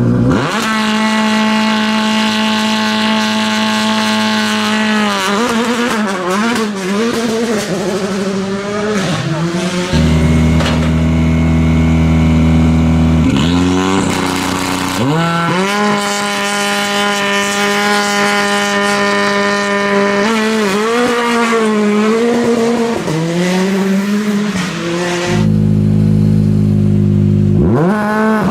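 Rally car engines at a stage start: one engine revs up and is held at steady high revs for about five seconds, then the car launches and pulls away, the pitch rising and dropping through the gearshifts. About halfway through, a second car idles low, revs up sharply, holds high revs and launches the same way, and near the end another engine revs up.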